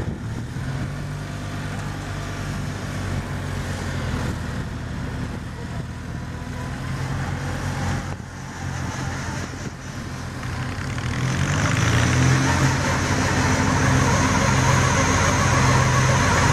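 Garden tractor engine running steadily, then getting louder and fuller about eleven or twelve seconds in.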